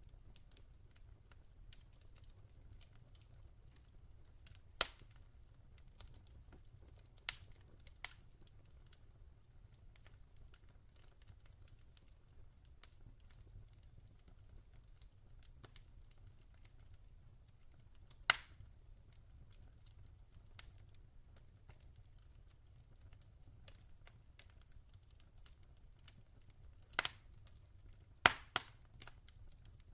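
Log fire crackling: a faint steady crackle broken by sharp pops every few seconds, several in quick succession near the end.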